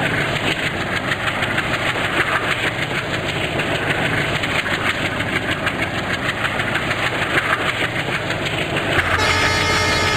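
A train running on the track: a loud, steady rumble with a dense rattle of wheels on rails. About nine seconds in, the sound changes abruptly to a steadier hum with a few steady tones.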